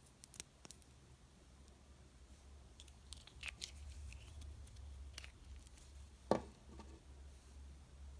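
Plastic candy packaging being handled and torn open: faint scattered crinkles and clicks, with one louder knock about six seconds in.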